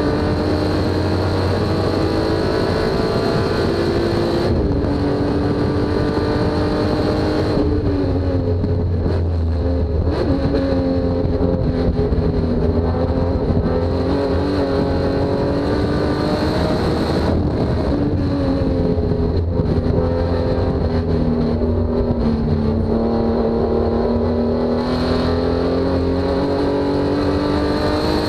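Honda J35A4 V6 in a race-prepped Honda S2000 running hard on track. Its engine note climbs and falls with throttle and gear changes, with sharp drops in pitch near 5 s and 8 s.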